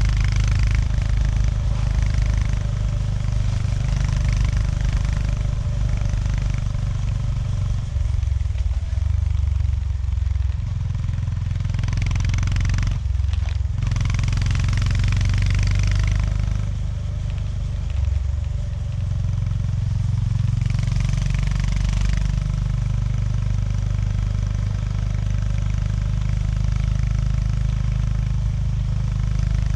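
Honda GB350S single-cylinder motorcycle engine running under way, its note shifting with the throttle, with a brief dip about thirteen seconds in.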